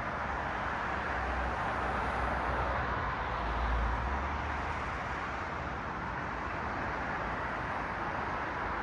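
Steady road traffic noise: tyre hiss and engine rumble of cars passing, with one vehicle's low rumble swelling and fading about halfway through.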